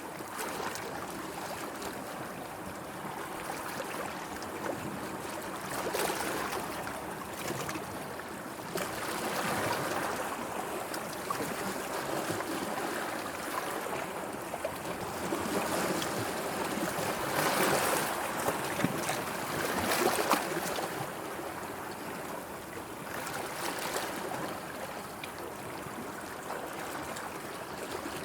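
Sea water washing and lapping in a continuous wash that swells and eases every few seconds, with a few louder splashes near the middle.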